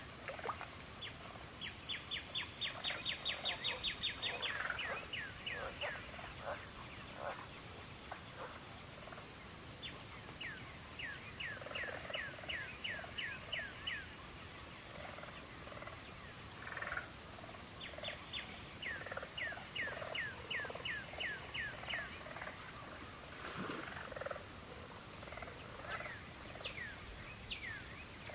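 Crickets chirping in a continuous, fast-pulsing high trill. A bird sings over them three times, each time a rapid run of short falling notes.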